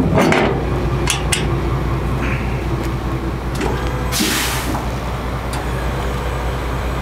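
A steady low motor hum, with a few sharp clicks and clanks in the first second or two and a short hiss about four seconds in.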